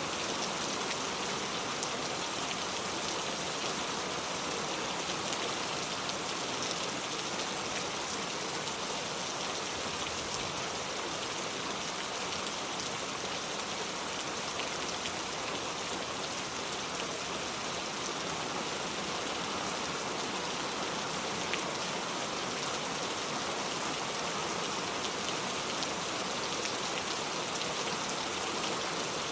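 Steady rain falling, an even hiss of drops on the ground and surfaces with scattered individual drop ticks.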